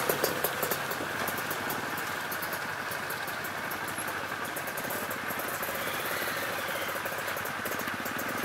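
Sport motorcycle engine idling steadily while the bike stands still, close to the bike-mounted microphone.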